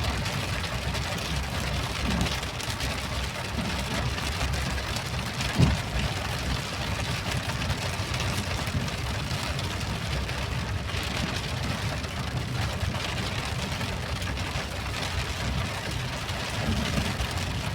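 Steady rain falling, an even hiss over a low, flickering rumble, with one brief knock about five and a half seconds in.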